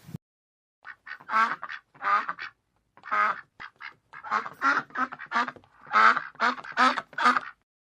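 A duck quacking: a string of short quacks, some single and some in quick runs, from about a second in until near the end.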